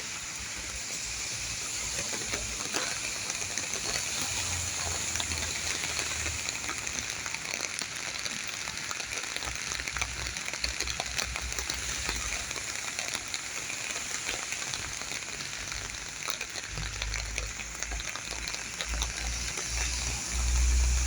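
Steady rain falling: a dense, even hiss with many separate drop taps. A low rumble comes in near the end.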